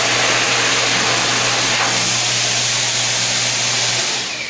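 Dyson Airblade V hand dryer running: a loud, steady rush of air over a constant motor hum, cutting off about four seconds in.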